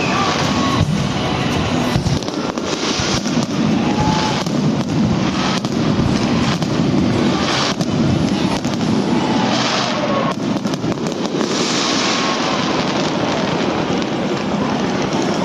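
Aerial fireworks bursting and crackling in rapid succession, with music playing underneath.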